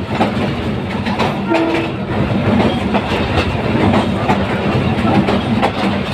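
Diesel-hauled passenger train running along the track: a steady low engine drone, with the wheels clattering over rail joints.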